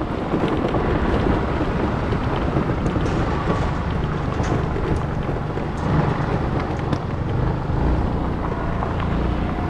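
150cc GY6 single-cylinder four-stroke scooter engine running steadily while riding, its top end freshly rebuilt, with wind buffeting the microphone.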